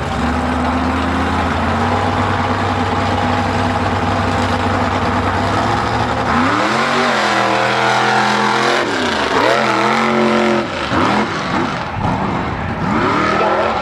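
Mega mud truck's engine under heavy throttle, held at steady revs for about six seconds, then revving up and down several times.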